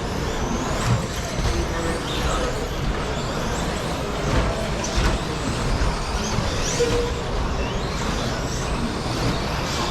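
A pack of electric 1/10 short-course RC trucks racing on a carpet track: 13.5-turn brushless motors whining up and down in pitch as they accelerate and brake, over a steady hiss of tyres, with a few sharp knocks.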